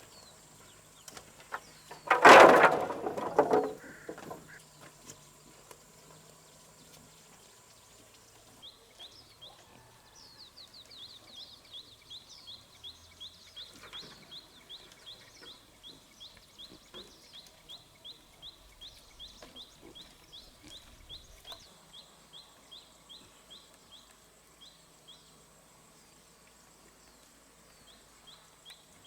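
A loud noise about two seconds in, lasting about a second and a half, then a long run of short, high chirps from a small animal, repeated evenly about three times a second.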